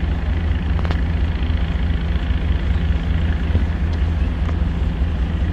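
Steady low engine drone of a motor vehicle, unchanging throughout.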